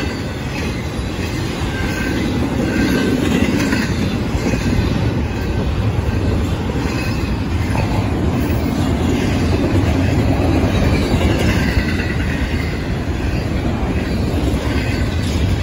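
Double-stack intermodal freight train rolling past close by: steady, loud noise of steel wheels on the rails, with the clatter of the cars going by.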